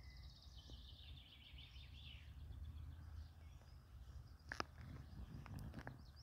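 Faint songbird singing: a quick run of high notes falling in pitch over about two seconds, over a low steady rumble. A single short click sounds about two thirds of the way through.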